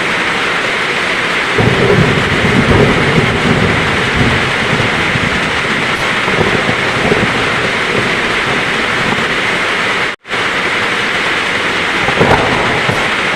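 Heavy rain falling steadily with rolling thunder: a low rumble swells about a second and a half in and lasts a few seconds, and a shorter rumble comes near the end. The sound cuts out for a split second about ten seconds in.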